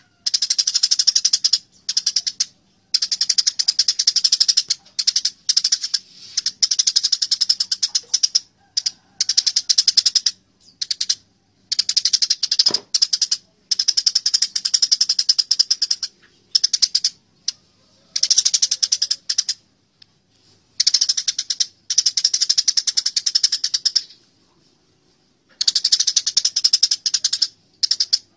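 Eurasian tree sparrows (burung gereja) chattering as they fight: dense, rapid bursts of high chirps in runs of a second or two, broken by short pauses.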